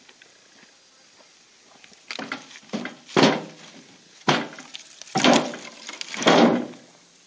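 Dry branches and brush crunching, crackling and rustling: about six loud crashes over four or five seconds, with one sharp snap in the middle, as storm-downed limbs are handled and piled.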